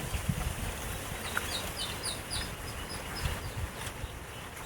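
A bird chirping faintly: a quick series of short, high chirps about a second in, over a low outdoor wind rumble.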